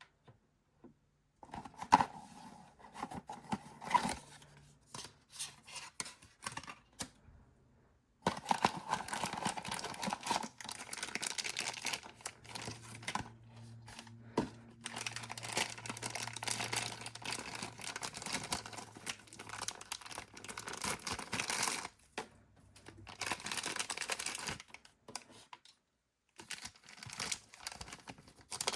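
Blind-box packaging being opened by hand: tearing and crinkling of the wrapping, mixed with small clicks and taps of handling, coming in bursts with short pauses.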